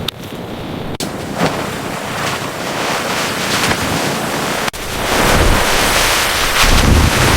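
Surf rushing with wind buffeting the microphone, a steady loud roar that grows louder and deeper over the last couple of seconds.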